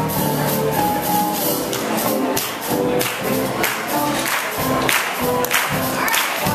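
Live big band playing swing, with the sharp metal clicks of high-heel tap shoes rattling over it in quick rhythms.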